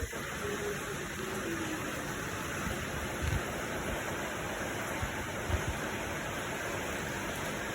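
Steady rushing noise, even and unbroken, with a couple of brief low thumps about three and five and a half seconds in.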